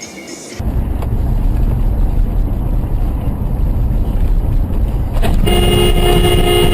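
Loud low rumble of a car on the road, starting a little under a second in, then a car horn sounding one long, steady blast near the end.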